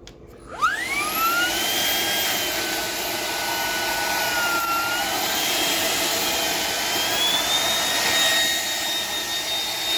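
Shark PowerDetect IP1251 vacuum cleaner switched on about half a second in: its motor whine rises quickly, then runs steadily through the crevice tool, the pitch shifting slightly a few times.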